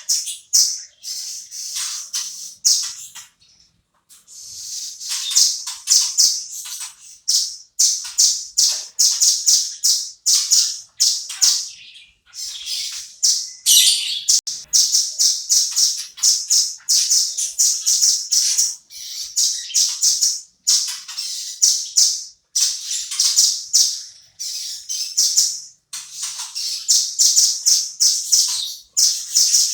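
Velvet-fronted nuthatch (red-billed rambatan) singing steadily: repeated high-pitched phrases of rapid trilled notes, each about a second long with short breaks, with a longer pause a few seconds in.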